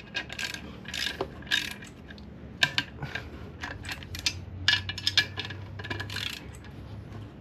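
Hand tools working on metal clutch and engine parts: an irregular series of sharp metallic clicks and clinks.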